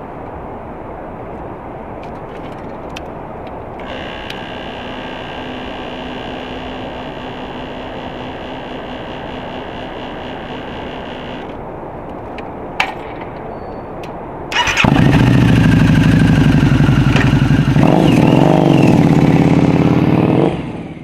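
Harley-Davidson V-Rod's liquid-cooled V-twin engine: a steady rushing background and a single click, then about 14 seconds in the engine sound comes in suddenly and loud, running with one throttle blip near the end before it cuts off.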